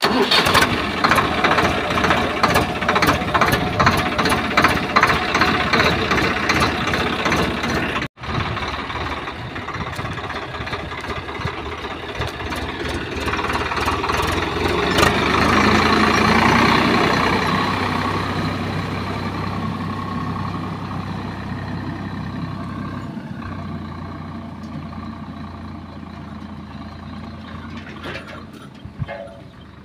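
Tractor engine running close by with a regular clatter. After a break about eight seconds in, it runs on steadily, growing louder to a peak about halfway and then slowly fading as it moves away.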